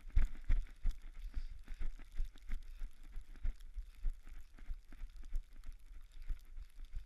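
Running footsteps on a snowy trail, a steady rhythm of about three steps a second, over a faint hiss.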